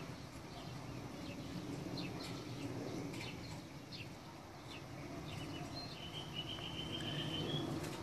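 Small birds chirping: scattered short, high chirps, then a rapid high trill lasting about a second and a half near the end, over a steady low background rumble.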